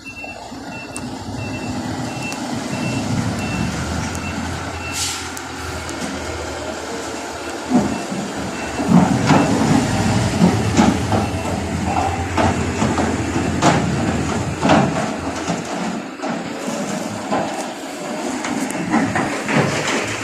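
Heavy truck's diesel engine running, with its reversing alarm beeping about twice a second, plainest in the first five seconds. Several sharp metallic knocks come from about eight seconds in.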